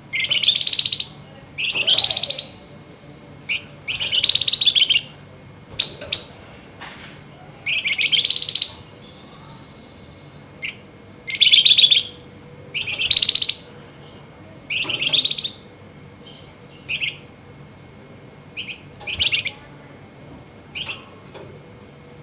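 A flamboyan songbird giving its harsh, rapid rattling chatter ('nyerecet') in short bursts of about half a second to a second, repeated every second or two. The later bursts are shorter and fainter. This is the excited, high-emotion calling that keepers play to stir other birds into singing.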